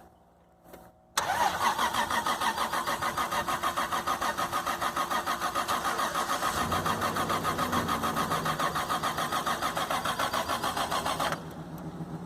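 Toyota Supra's starter cranking the engine in one long, fast, even churning run of about ten seconds without the engine catching. The car has sat for almost ten years. The cranking stops about a second before the end.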